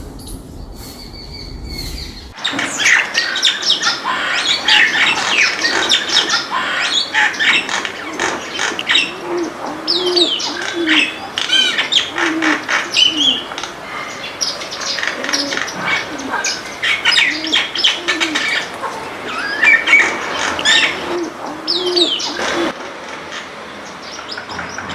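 A chorus of backyard birds chirping and calling, with many quick overlapping chirps and whistles. A short low note repeats underneath them. The chorus starts suddenly about two seconds in and drops away near the end.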